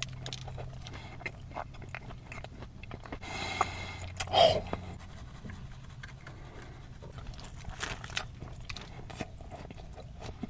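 Close-up chewing and biting of a grilled club sandwich: repeated small crunches and wet mouth clicks, with a short louder mouth sound about four and a half seconds in.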